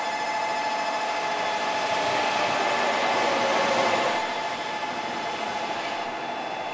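Shinkansen bullet train pulling in alongside the platform: a rushing noise that builds to about four seconds in, then eases as the train slows, with a steady high whine underneath.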